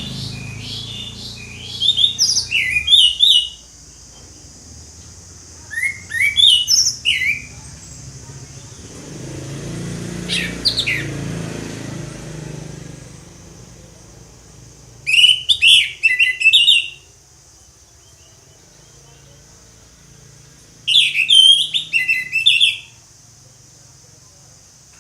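Orange-headed thrush singing loud, varied phrases of quick whistles and chirps, one phrase every few seconds with pauses between, over a steady high hiss.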